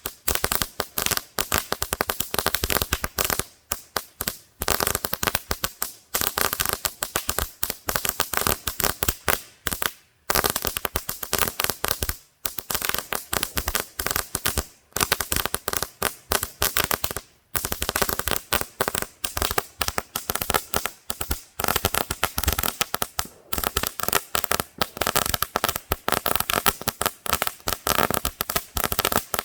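Singing Cicadas crackling firework going off: a loud, dense stream of rapid crackles, pausing for a split second every few seconds before picking up again.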